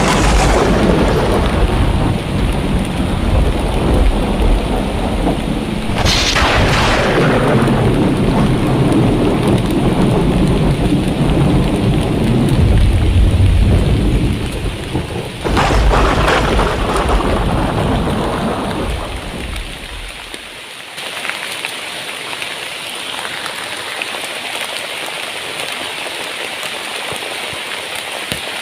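Thunderstorm: three claps of thunder, at the start, about six seconds in and about fifteen seconds in, each a sudden crack that rolls into a long low rumble, over heavy rain. The thunder fades after about twenty seconds, leaving steady rain.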